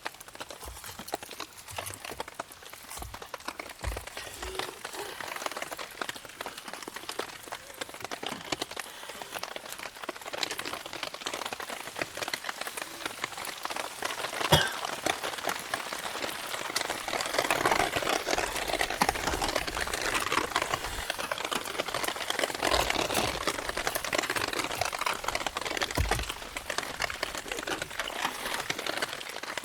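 Wood campfire crackling in the rain, with dense sharp pops over a steady hiss of rain. From a little past halfway the crackle and hiss grow louder and thicker.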